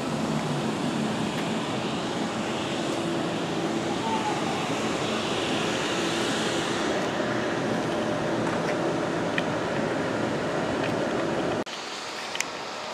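Steady rumbling noise of a train at a railway station, with indistinct voices. It cuts off abruptly near the end, leaving a quieter, wind-like hiss.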